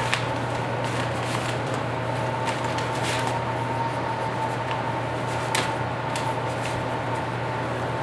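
Steady background machine hum with a faint high whine, under scattered light rustles and clicks of hands working on a seat pan and its cover.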